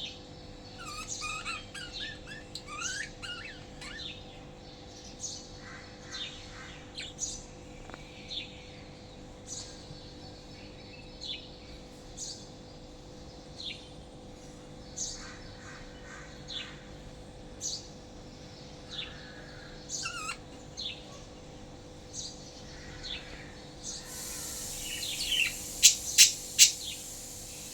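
Lovebirds chirping in short, high, repeated calls, with a run of quicker gliding chirps a couple of seconds in. Near the end a rush of hiss and a few loud sharp clicks stand out as the loudest sounds.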